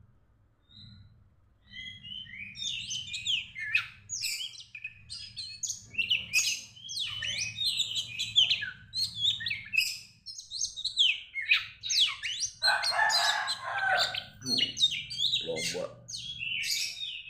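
Oriental magpie-robin (kacer) in moult singing a fast, varied run of chirps and whistles. It starts a little under two seconds in and goes on with short breaks, with a denser, lower-pitched stretch about thirteen seconds in.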